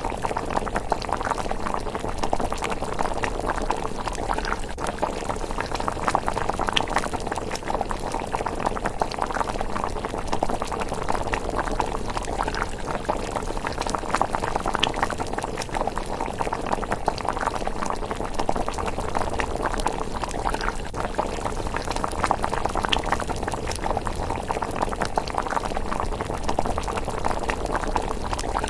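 A pot of thick miso rice porridge simmering, bubbling steadily with many small pops.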